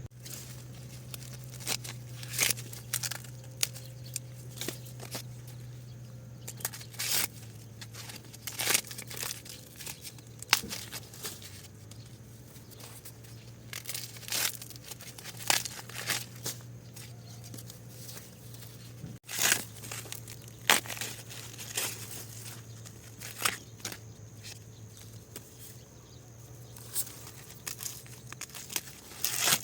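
Repeated sharp tearing and crackling sounds at irregular intervals, over a steady low hum.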